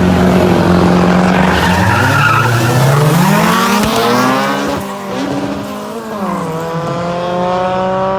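A car engine revving hard with tires squealing. The engine note climbs steadily about two seconds in, falls back after about five seconds, then holds.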